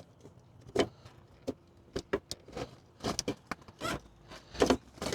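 Irregular clicks and rattles of a car headlight bulb and its wiring connector being wiggled and tugged in the headlight housing, as a stuck connector resists coming out.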